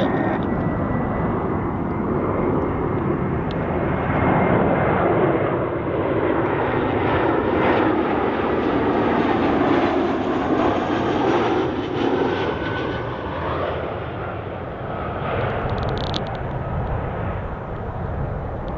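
Jet airliner on landing approach passing close by: the engine noise swells to its loudest around the middle, then fades away.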